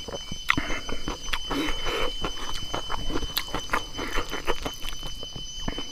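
Close-up chewing of crunchy food, a string of small crisp crunches and mouth clicks, as a mukbang eater bites into and chews wing beans.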